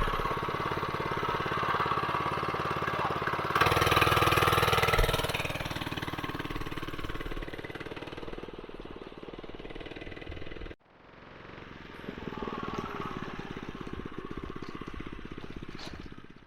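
Doodlebug mini bike's 79cc single-cylinder four-stroke engine running. It gets louder for a second or two about four seconds in, then fades away. It cuts off abruptly near eleven seconds and comes back a moment later.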